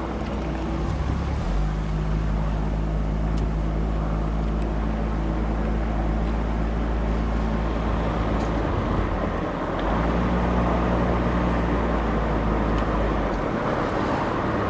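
A car driving, its engine making a steady low drone over road noise. The drone drops out for about a second around nine seconds in, then returns.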